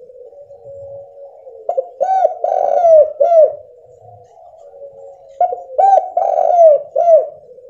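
Spotted dove cooing: two phrases, each of several short coos that rise and fall in pitch, starting about two seconds in and again near five and a half seconds.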